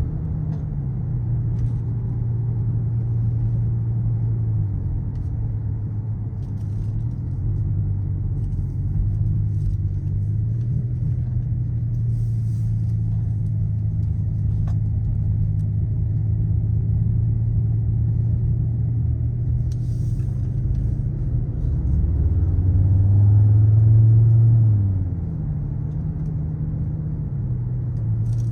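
Skoda Kodiaq RS's 2.0 TSI turbocharged four-cylinder petrol engine and exhaust under way, with a low, steady note whose pitch steps a few times through gear changes. Near the end it rises and grows louder under acceleration, then drops suddenly at a shift or lift-off.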